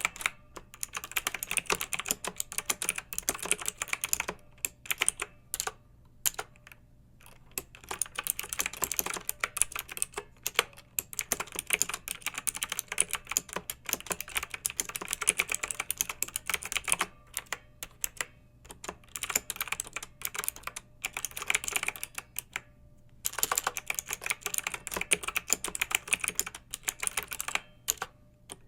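Clicky mechanical keyboard typing: quick runs of sharp keystrokes broken by short pauses of a second or two.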